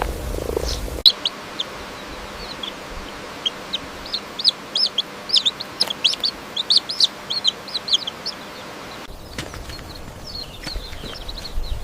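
Small birds or poultry chicks chirping: many short, high peeps in quick irregular succession, starting suddenly about a second in and growing fainter after about nine seconds. Before that, a brief low rustling sound.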